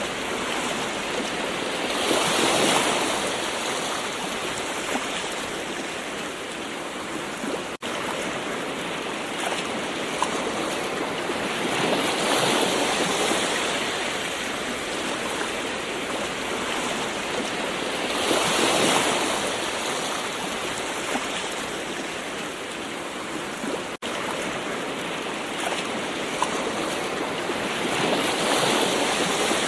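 Gentle ocean waves washing onto the shore: a steady hiss of surf that swells four times as waves break, several seconds apart.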